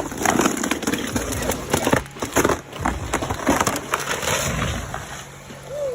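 Wood cracking and splintering in a series of irregular sharp cracks and crashing knocks, as of timber breaking apart.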